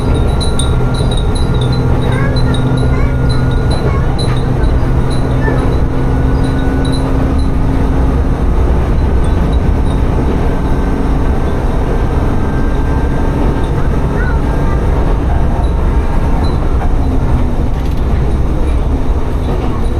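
Tsugaru Railway diesel railcar running along the line: a steady low rumble of engine and wheels, with a steady engine tone through the first several seconds that then eases off. Light, irregular high tinkling sounds over the rumble during that first part.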